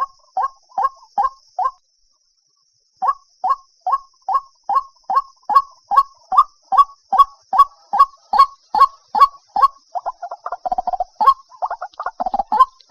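White-breasted waterhen calling: a steady run of short, loud 'kook' notes at about two and a half a second, broken by a pause of about a second two seconds in. Near the end the notes give way to a faster, jumbled burst of croaking calls before the steady run resumes.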